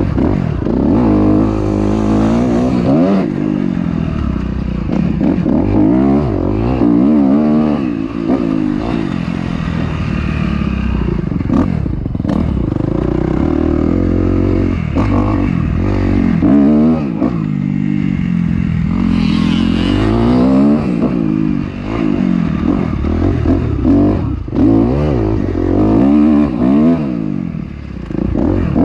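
Dirt bike engine being ridden, its revs rising and falling over and over as the throttle is opened and closed.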